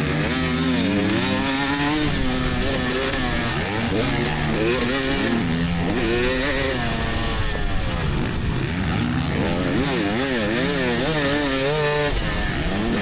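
2024 GasGas EX300 two-stroke dirt bike engine under hard riding, its pitch rising and falling again and again as the throttle is opened and shut, with several quick up-and-down swings near the end.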